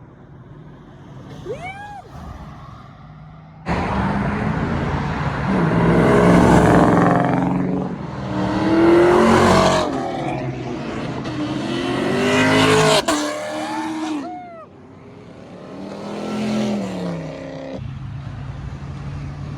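Car engines revving hard in several rising and falling surges, becoming much louder suddenly about four seconds in and dropping back near the end.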